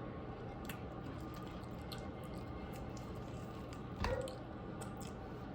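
Soft chewing and mouth sounds of someone eating cooked chicken, with a few faint clicks and a slightly louder mouth sound about four seconds in.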